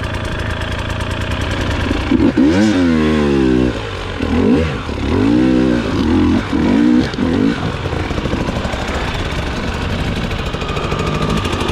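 Dirt bike engine idling, then revved hard about two seconds in and blipped several more times between about four and seven seconds, before settling into steady running.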